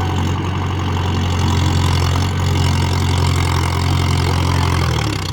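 Mahindra Yuvo 415 DI tractor's diesel engine running at a steady note, which drops slightly lower near the end.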